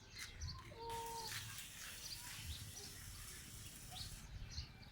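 Faint outdoor background with birds chirping here and there. About a second in there is one short, steady, even-pitched call.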